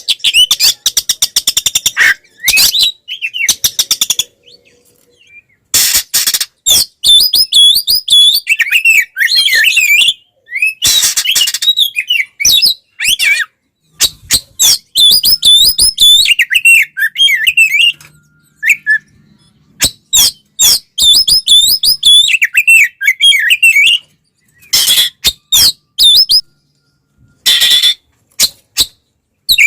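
Oriental magpie-robin (kacer) giving its aggressive fighting song: bouts of fast, varied warbling whistles broken by harsh rasping calls, with short pauses between bouts.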